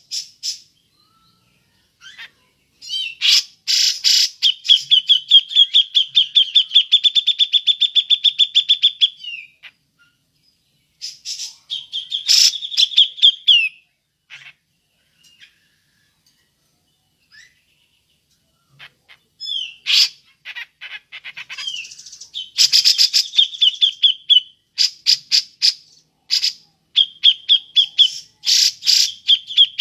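Grey-cheeked bulbul (cucak jenggot) giving its 'ngepik' call: fast runs of sharp repeated high notes, several a second. There is a long run near the start, a short burst in the middle, and a stretch of runs through the last third, with quiet gaps between them.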